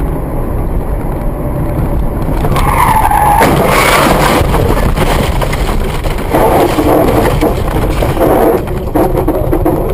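Car driving with loud road and wind noise, its tyres squealing in a skid about three seconds in.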